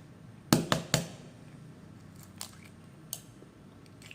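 Balut egg tapped three times in quick succession against a hard surface to crack its shell, followed by a couple of faint clicks.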